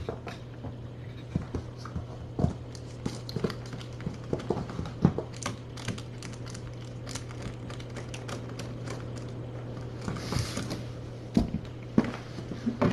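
Kittens playing about a small hard-floored room: scattered light clicks and taps at an irregular pace over a steady low hum, with a short rustle about ten seconds in.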